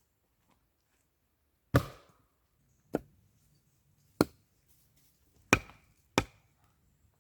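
Five sharp chops of a blade into wood, spaced about one to one and a half seconds apart, the last two closer together.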